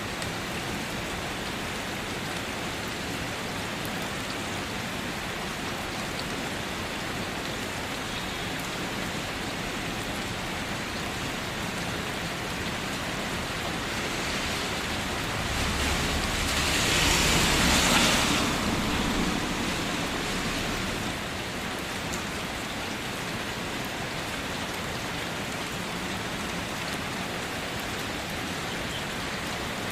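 Rain falling steadily on a car, an even patter and hiss. For a few seconds past the middle it swells louder, with a low rumble underneath, then settles back to the steady rain.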